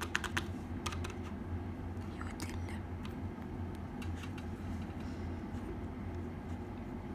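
Crunchy slime being squeezed and pressed by hand, giving clusters of small crackling clicks, densest in the first second or so and again around the middle. A steady low hum runs underneath.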